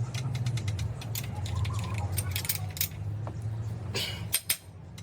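Light metallic clinks and ticks of metal parts or hand tools over a steady low hum. About four seconds in there is a short hiss and two sharper clinks, and the hum stops.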